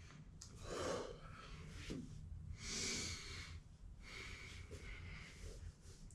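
A person breathing hard under exertion during a set of Bulgarian split squats, with a few loud breaths spaced a second or two apart, the strongest about a second in and about three seconds in, over a low steady hum.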